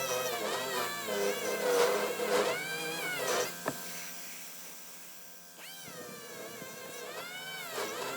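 Handheld power sander working body filler on a steel door panel, its whine dropping in pitch as it is pressed into the work and rising again as it is eased off. About five seconds in it winds down, then spins back up with a sharp rising whine.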